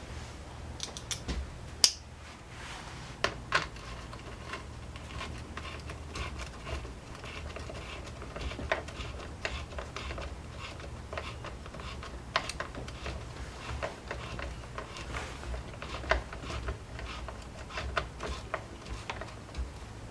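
Irregular clicks, taps and light metallic clinks of hand tools and small parts being handled while a string trimmer is worked on, with one sharper click about two seconds in. A low steady hum runs underneath.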